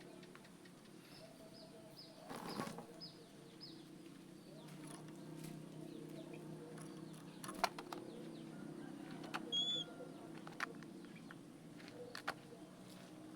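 Caged oriental magpie-robin (kacer) calling softly: a quick run of short, high, falling chirps, a brief flutter of wings, a few light clicks and one short whistled note, over a faint steady low hum.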